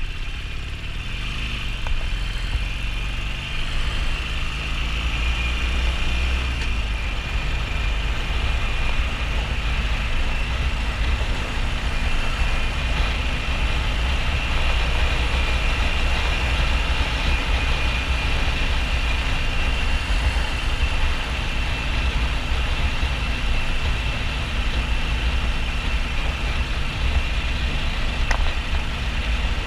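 2009 Harley-Davidson XL1200N Nightster's air-cooled V-twin running at motorway speed, with steady wind and road rush over it. Its pitch rises over the first couple of seconds as the bike speeds up, then holds steady.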